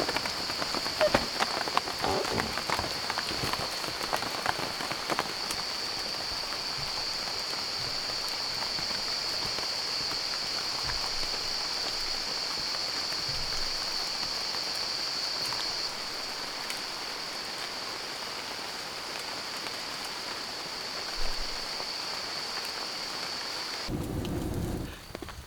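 Steady rain falling, with sharp drops pattering in the first few seconds and a constant high-pitched buzz over it. The buzz cuts off near the end, when a low rumble comes in.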